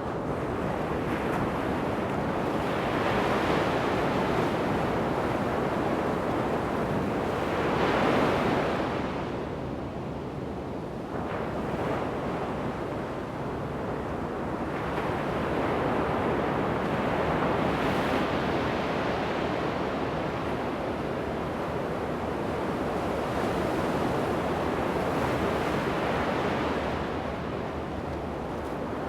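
Ocean surf breaking and washing up on a sandy beach, the rush swelling and ebbing every several seconds, with the strongest surge about eight seconds in. Wind on the microphone adds a low rumble.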